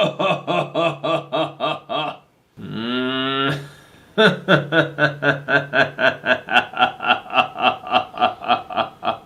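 Evil clown laugh sound effect: a man's rhythmic 'ha-ha-ha' laughter, about five ha's a second. About two and a half seconds in it breaks off for a drawn-out sliding vocal sound, then the laughing resumes.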